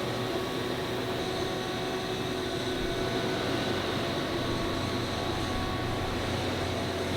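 Factory machinery running steadily: an even mechanical drone with a low hum and a few faint steady tones over it.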